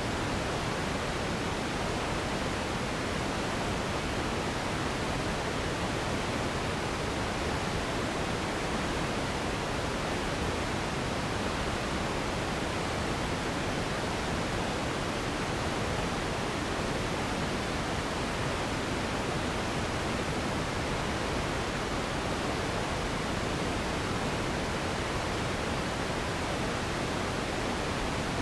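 Steady synthetic relaxation noise: a constant, even hiss that does not change, fuller in the middle range and softer in the highs.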